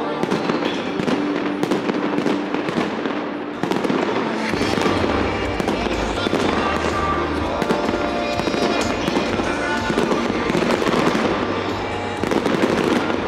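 Fireworks going off in rapid succession, sharp bangs and crackles over loud music; a heavy bass comes in about four and a half seconds in.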